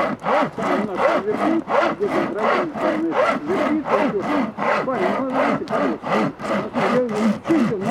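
Hand saw cutting firewood in steady back-and-forth strokes, about two or three a second, each stroke with a short rising and falling rasp.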